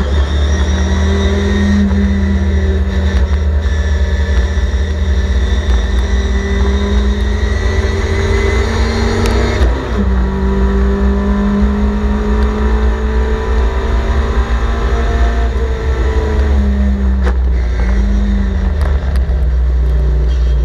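Sebring Sprite race car's four-cylinder engine pulling hard at high revs, heard from on board. The engine note dips briefly about ten seconds in and then holds again, and it drops lower near the end as the car slows for a corner.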